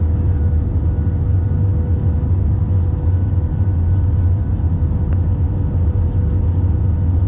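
Airliner cabin noise heard from a passenger seat: a steady low rumble of engines and airflow with a constant hum over it.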